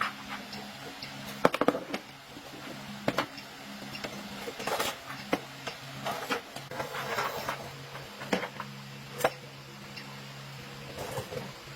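Hand tools and metal parts being handled: scattered sharp clicks and knocks, with a quick run of clicks and a few single strikes, and short stretches of scraping, over a steady low hum.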